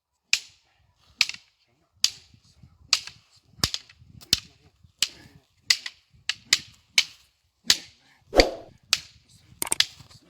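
Wooden fighting sticks clacking against each other in an Algerian traditional stick-fighting drill: sharp strikes about two a second, some in quick pairs or triples, with one heavier, deeper knock about eight seconds in.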